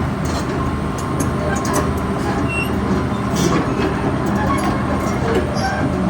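Hitachi ZX330LC-3 hydraulic excavator's diesel engine running steadily, with scattered metallic clicks and knocks.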